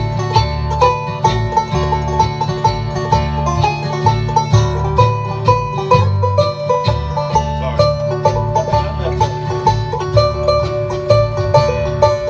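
Live string band playing an instrumental break, banjo picking quick notes over guitar, with no singing.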